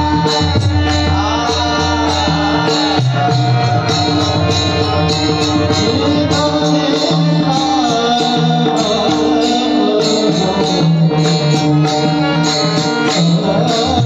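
Devotional bhajan singing by a male voice, accompanied by mridang drumming and jingling hand cymbals over a steady sustained drone. The melody glides and bends continuously.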